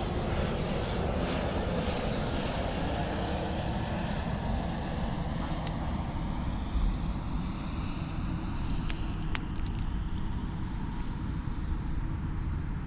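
A propeller aircraft engine droning past, its pitch slowly falling as it fades, over a steady low rumble; a few sharp ticks about six and nine seconds in.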